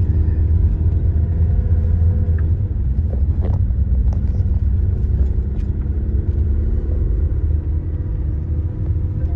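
Car driving uphill: a steady low road and engine rumble with a steady engine hum, and a few light clicks about three and a half seconds in.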